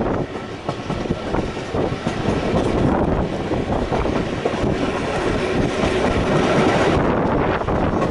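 Passenger train running along the track: a steady rumble and clatter of the wheels on the rails.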